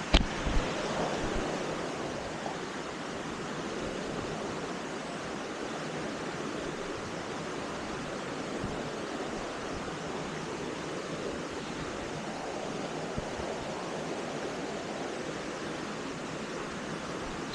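Steady rush of falling water from a waterfall, with a single sharp knock right at the start.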